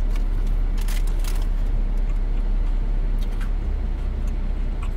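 Steady low rumble of a parked vehicle's running engine, heard inside the cabin. A few short crackles of sandwich wrapper paper and chewing come through on top as a sandwich is bitten and eaten.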